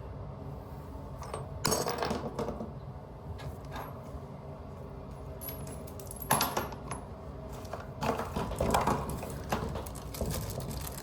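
Metallic clinks and scrapes of small plumbing parts and tools being handled at a pipe, in short spells about two seconds in, around six seconds in, and again from eight to nine and a half seconds.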